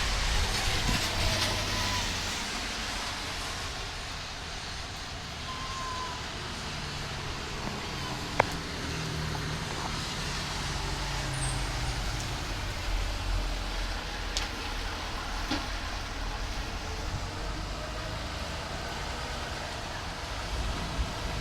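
Steady rushing noise of a rainstorm with a low rumble underneath, and a single sharp click about eight seconds in.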